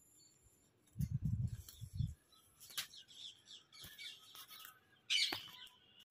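Faint handling noise from a wire bird cage, with soft knocks and rustles, and a small bird's thin chirps; the clearest chirp comes about five seconds in.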